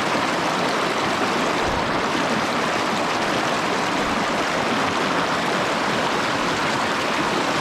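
Clear mountain stream rushing over shallow riffles and pockets, a steady, even wash of water close to the microphone.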